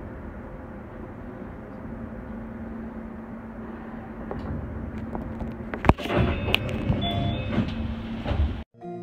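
Inside a Keio 5000 series commuter train coming to a stand at a station: a steady hum, then about six seconds in a sharp clack followed by clunks and short tones as the sliding doors open. The sound cuts off abruptly near the end.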